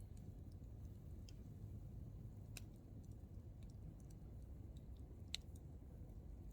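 Hardwood firewood crackling in an open campfire: scattered sharp pops and ticks, the loudest a little over five seconds in, over a low steady rumble.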